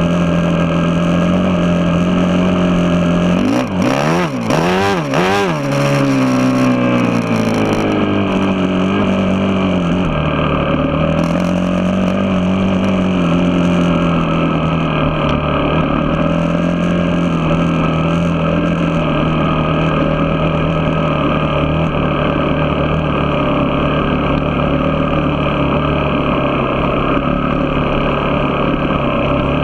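Vehicle engine running steadily under way, its pitch swinging quickly up and down several times about four seconds in, then holding nearly even with slight wavering.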